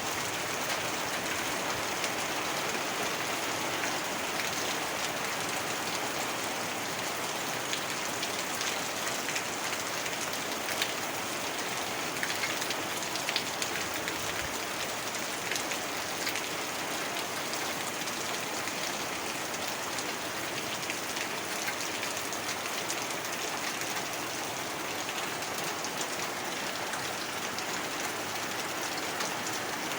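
Heavy rain falling steadily on hard surfaces, a dense even patter with many individual drops ticking through it.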